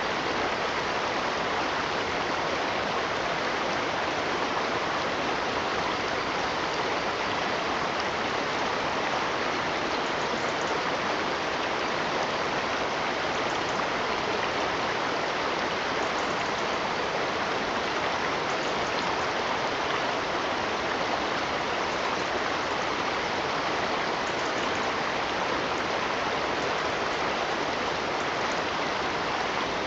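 Running water of a stream, a steady, even rush with no breaks or changes.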